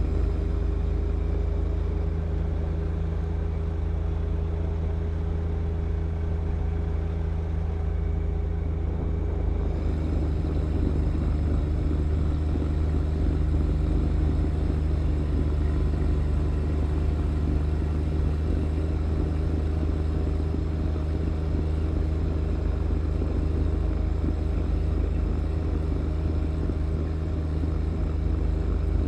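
John Deere 1025R compact tractor's three-cylinder diesel running steadily while driving a snow blower, a constant low drone. About ten seconds in, a rushing hiss joins on top of it.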